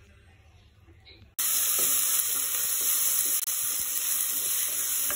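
Faint room sound, then from about a second and a half in a loud, steady sizzle of chopped onion and garlic frying in oil in a clay pot.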